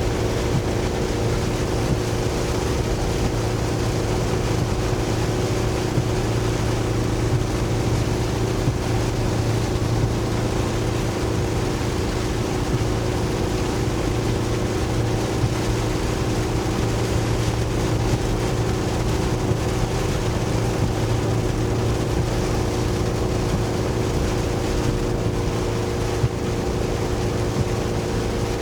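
Truck engine running steadily, heard from inside the cab, with heavy rain and wind making a constant hiss over it.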